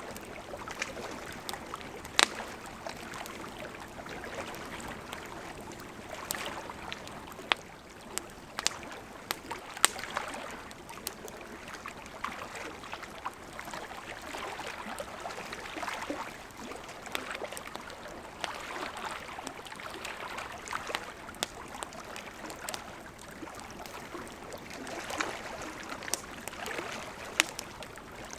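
Wood campfire crackling, with scattered sharp pops that are loudest about two seconds in and around ten seconds in, over the steady rush of a gently flowing river.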